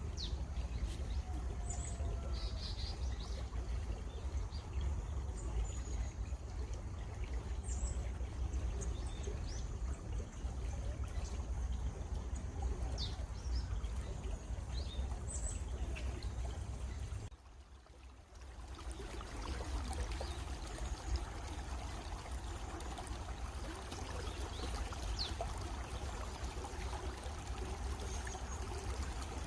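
Stream water flowing and trickling steadily, with scattered short bird chirps above it. The sound drops away briefly about two-thirds of the way through, then returns.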